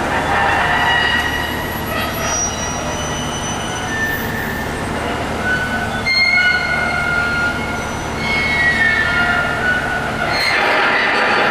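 Several high-pitched squealing tones at once, shifting and overlapping, over a steady low rumble. The squeal swells near the start and again near the end.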